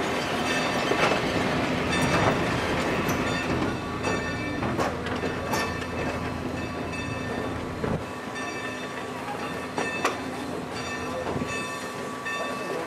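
Passenger train rolling slowly on the rails, heard from an open coach window: a steady rolling noise with scattered clicks and knocks from the wheels. The deep rumble drops away about eight seconds in.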